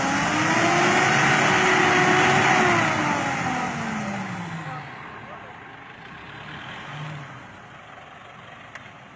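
A 4WD pickup truck's engine revving hard under load with a strong hiss, then dropping in pitch and fading away about four to five seconds in.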